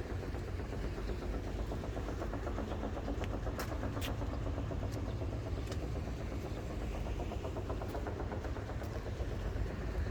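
Used diesel bus engine running steadily at idle, with a fast even firing rhythm. A few sharp clicks sound about four seconds in.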